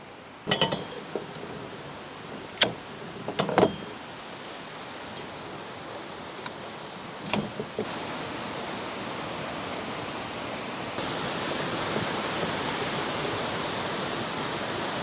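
River water rushing steadily, getting louder in two steps in the second half. A few sharp knocks and clicks sound over it in the first half.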